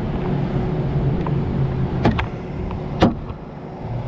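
A vehicle engine runs with a steady low hum. Two sharp clicks come about two and three seconds in, and the hum quiets a little after the second.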